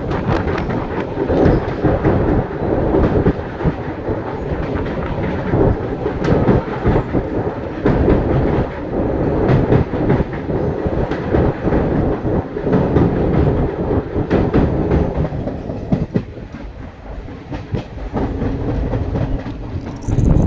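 Train running on its rails, the wheels clattering over rail joints above a steady rumble; it eases off for a moment about sixteen seconds in.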